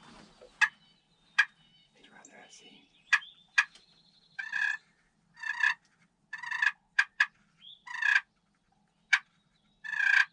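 Wild turkeys calling: several short rattling gobble bursts, with sharp single clucking notes scattered between them.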